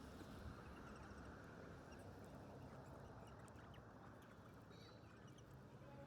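Faint steady background hiss with a few faint, short high chirps from birds, around one second in and again near the end.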